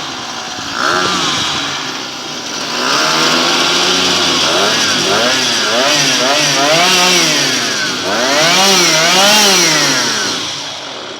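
Carver 3.8 outboard motor fitted with a Suzuki muffler, running with its revs rising and falling again and again, then one longer surge in revs near the end before it drops away.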